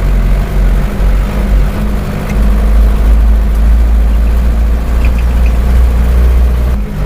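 Engine of a heavily loaded truck running with a loud, steady low rumble.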